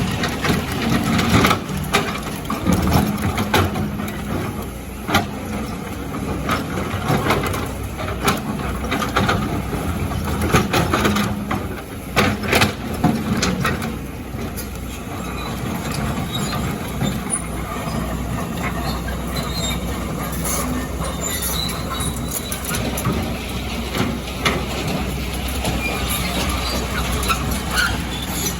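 Hydraulic excavator at work: its diesel engine runs steadily under repeated knocks and scrapes of rock and sand, thickest in the first half. Short high metallic squeaks come through in the second half.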